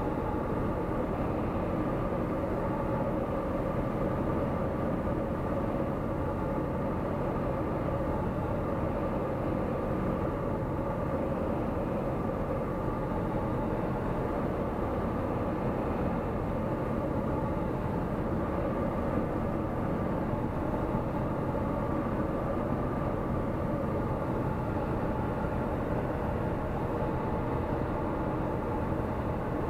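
Tecnam P96 Golf light aircraft's Rotax 912 flat-four engine and propeller running steadily, a constant drone heard inside the cabin.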